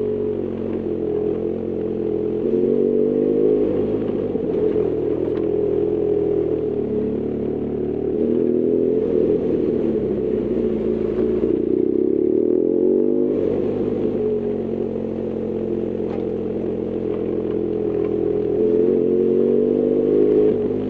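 BMW R1200GS Adventure's boxer-twin engine running under way, the revs rising and falling as the bike is ridden. The engine note drops off about eleven seconds in and picks up again a couple of seconds later.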